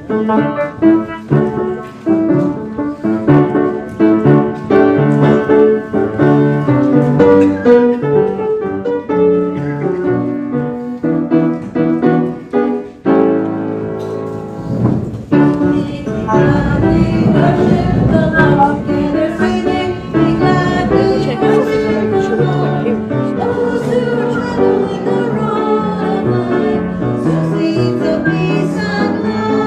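Piano or keyboard playing a hymn tune, joined about halfway through by a congregation singing the hymn with the accompaniment.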